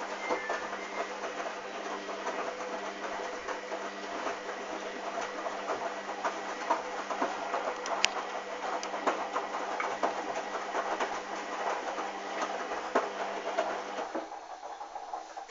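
Hoover DYN 8144 D washing machine running, a steady motor hum with a constant patter of small clicks and rattles; the hum cuts out about fourteen seconds in.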